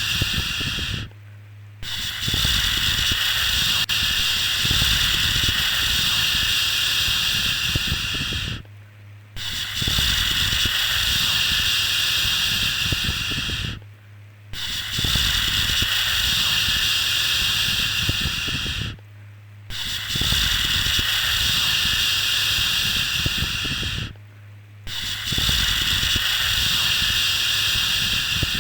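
A soothing 'shhh' shushing sound for babies, held in long shushes of about five seconds each, separated by brief pauses of under a second.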